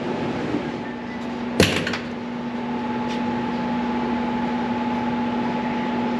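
A sharp click about a second and a half in. A steady machine hum follows it and runs on over a constant fan-like background noise.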